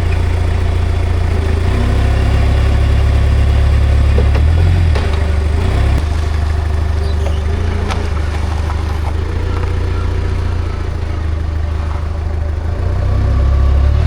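Komatsu 30 forklift engine running steadily at idle under test after a new hydraulic main pump was fitted, its note shifting briefly about five seconds in and again near the end.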